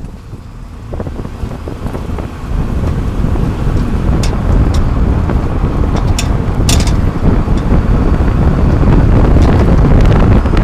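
Road and wind noise from underneath a moving 30-series Toyota Prius, picked up close to the underbody, building up over the first few seconds as the car gathers speed and then holding steady. A few sharp clicks or knocks stand out about four to seven seconds in.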